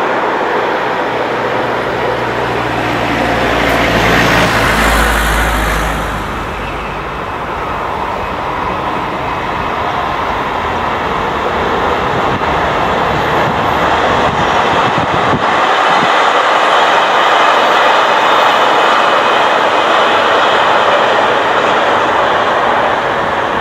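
High-speed electric passenger trains passing at speed: a loud rush of wheels on rail and air that swells about five seconds in, eases, then builds again into a long steady pass of an Italo AGV (ETR575) train.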